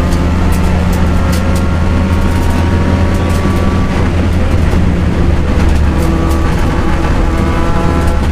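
Turbocharged four-cylinder engine of a Mitsubishi Lancer Evo rally car running hard at speed, heard loud from inside the stripped cabin, its note steadying, briefly breaking up near the middle, then settling again. Scattered sharp clicks sound over it.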